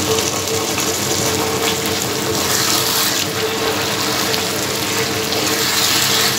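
Chhena curry sizzling and bubbling in a frying pan, a steady hiss that swells twice, about three seconds in and again near the end, as the curry is stirred with a wooden spatula. A steady hum runs underneath.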